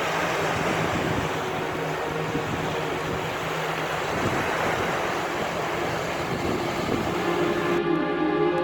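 Sea waves washing on a shore, with wind rumbling on the microphone. Near the end this cuts away to music with sustained tones.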